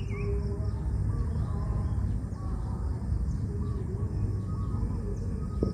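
Quiet outdoor ambience of faint small-bird chirps over a steady low rumble, with a short click near the end.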